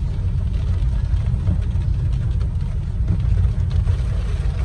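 Steady low rumble of a car's engine and road noise heard from inside the cabin while driving, with a light hiss over it.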